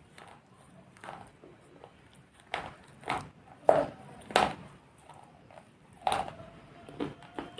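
Dry baked clay pot pieces being bitten and chewed: a series of sharp crunches, about seven, the loudest a little under four seconds in, with softer chewing between.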